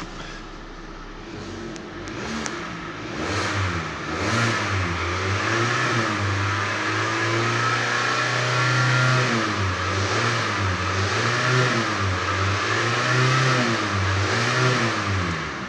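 2017 Hyundai Kona's 2.0-litre four-cylinder petrol engine being revved while parked, heard from inside the cabin. The engine climbs a couple of seconds in and is held up around 3,000–3,500 rpm, with the revs wavering up and down. It drops back toward idle near the end.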